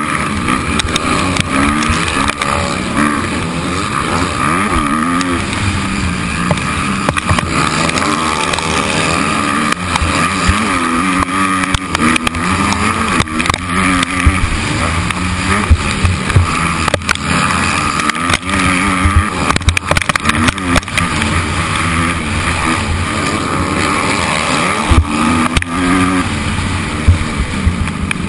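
Motocross motorcycle engine running hard, its revs climbing and dropping again and again, with a steady rush of noise and scattered sharp knocks.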